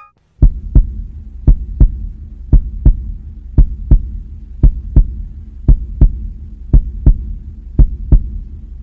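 Heartbeat sound effect: pairs of low thumps, about one double beat a second, over a steady low hum.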